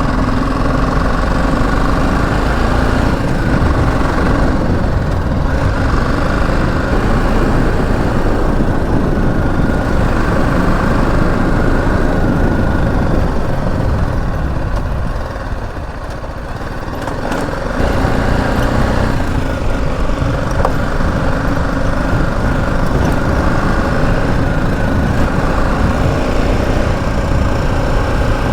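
BMW G 310 GS single-cylinder motorcycle being ridden, the engine running under a dense rush of wind and road noise. The sound eases off for a couple of seconds about halfway through, then picks up again.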